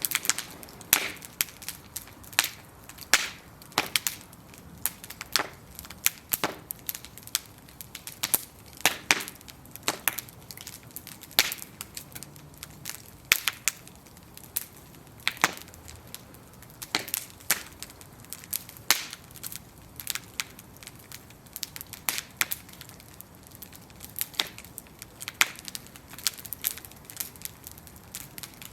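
Bonfire of burning wooden planks crackling, with sharp irregular pops and snaps over a soft steady hiss.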